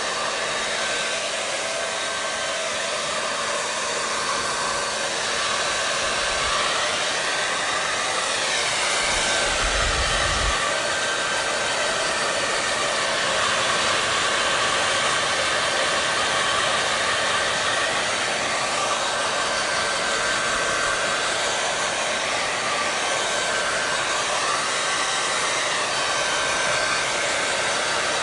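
Hair dryer running continuously: an even blowing rush with a faint steady whine, its tone shifting slowly now and then.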